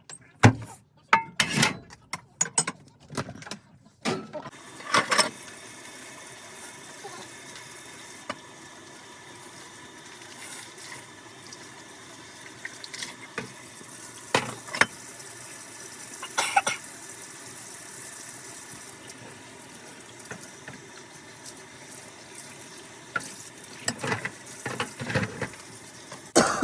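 Kitchen tap running steadily into a sink during dishwashing, with dishes knocking and clinking now and then. A quick run of clatters comes before the water starts, about four seconds in.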